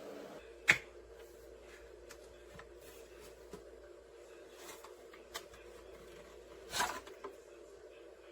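A sharp plastic click about a second in, a few light ticks, and a brief rustling scrape near the end, over a faint steady hum.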